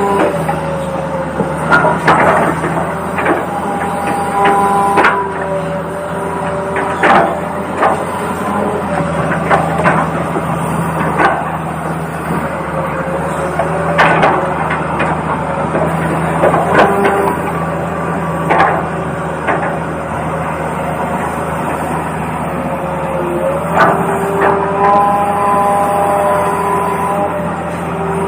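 RC toy excavator working, its motors whining in steady tones that shift in pitch as it moves, over a constant low hum, with scattered clicks and knocks throughout.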